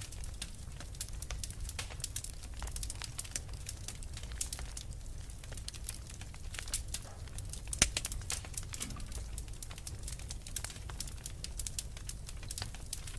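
Wood fire crackling in a fireplace: a steady run of small sharp pops and snaps over a low rumble of the flames, with one louder pop about eight seconds in.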